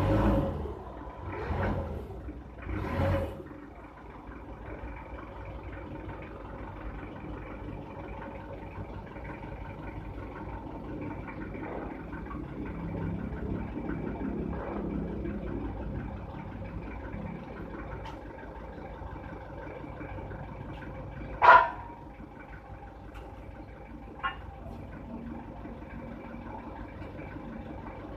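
A steady mechanical hum from a running engine or machine. It has three louder surges in the first few seconds and one sharp clank about twenty-one seconds in, with a fainter tick a few seconds later.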